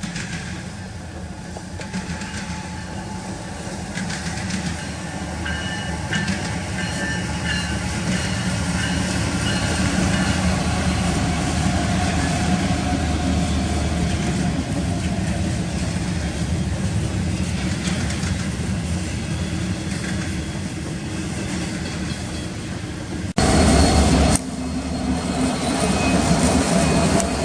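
Union Pacific freight train rolling past, its wheels clicking over the rail joints. The sound builds over the first ten seconds and then holds steady, with a short loud burst about a second long near the end.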